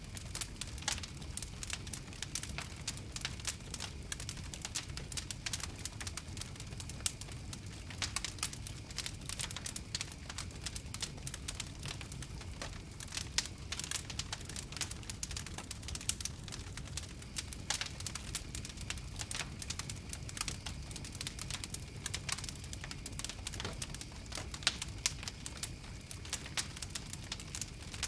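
Campfire crackling: a continuous run of irregular sharp snaps and pops over a low, steady rumble of the flames.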